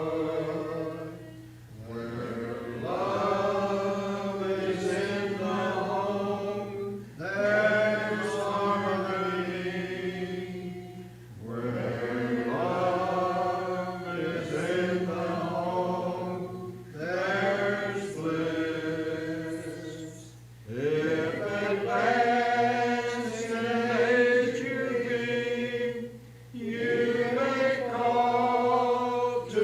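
A church congregation singing a hymn a cappella, with no instruments. The hymn moves in phrases a few seconds long, with short breath pauses between lines.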